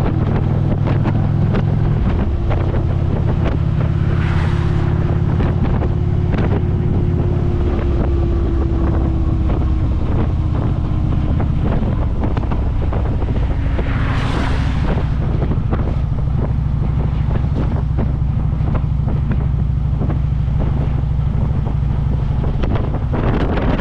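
Harley-Davidson V-twin motorcycle engine running steadily at highway cruise, with wind buffeting the microphone. Two brief whooshes rise and fade about 4 and 14 seconds in.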